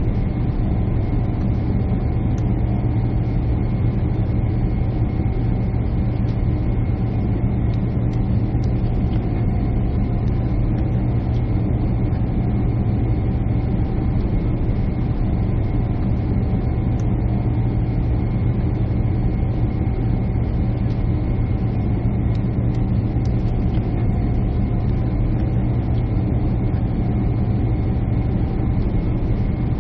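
Jet airliner engine and airflow noise heard inside the passenger cabin. It is a steady, even drone with a strong low hum and a couple of faint steady tones above it.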